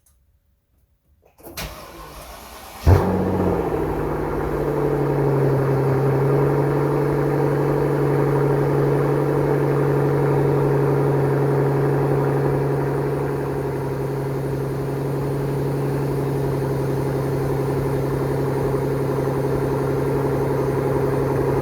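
2008 Mercedes-Benz S65 AMG's Renntech-tuned twin-turbo V12 cold-started after sitting overnight: the starter cranks for about a second and a half, the engine catches with a loud burst, then settles into a steady fast cold idle.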